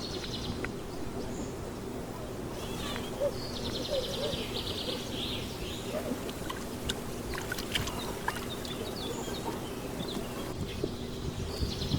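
Outdoor ambience: a rapid high pulsed trill a little after the start and again near the end, over a steady low hum, with scattered light clicks.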